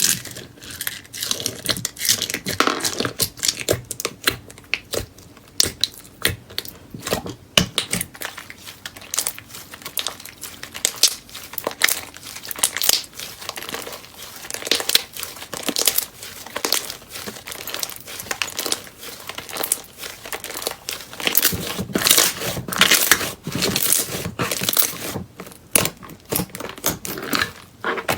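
Hands squeezing, stretching and poking slime: a dense, irregular run of crackles and pops that swell and fade.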